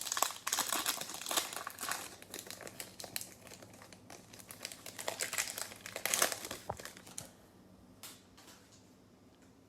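Plastic wrapper of a trading card pack crinkling as it is handled and torn open, in irregular crackling bursts that die down about seven and a half seconds in.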